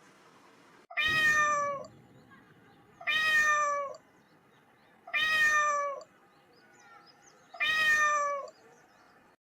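A kitten meowing four times, each meow under a second long and falling in pitch, about two seconds apart; the four calls are almost identical in shape.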